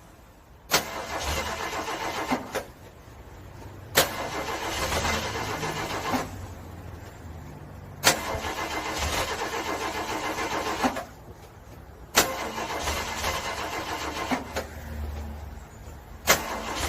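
Car engine being cranked by its starter in freezing cold, in repeated attempts about every four seconds. Each attempt opens with a sharp click and runs for about two seconds of fast, even cranking without the engine catching: a cold engine struggling to start.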